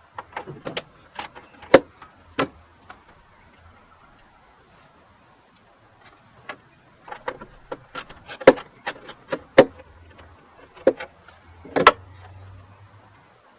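Hand tools clicking and knocking against metal fittings while a bumper retaining nut is being worked loose: irregular sharp clicks, a cluster at the start and another after a pause of a few seconds.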